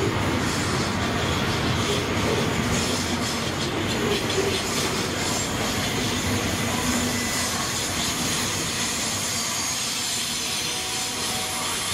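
Train rolling along the rails: a steady noise of wheels and cars, with faint high wheel squeal at times, easing off slightly near the end.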